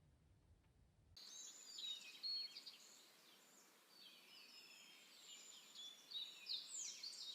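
Several small birds chirping and singing at once: quick high chirps and short whistled sweeps over a faint steady outdoor hiss, starting abruptly about a second in.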